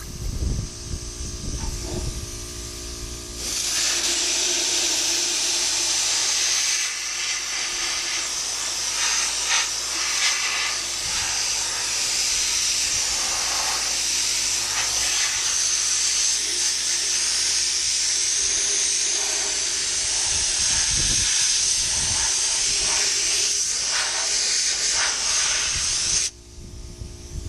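Steady high-pitched hiss of a pressurised spray, starting a few seconds in, with a few brief dips, and cutting off suddenly near the end.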